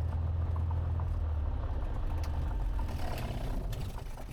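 Cessna 182T's six-cylinder Lycoming IO-540 engine running at low idle after landing, a steady low drone heard inside the cabin, dropping away near the end.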